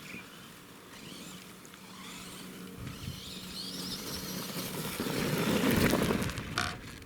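Axial SMT10 radio-controlled monster truck driving over quarry ground: a steady electric-motor hum with tyre and chassis crunch. It gets louder for a second or two near the end.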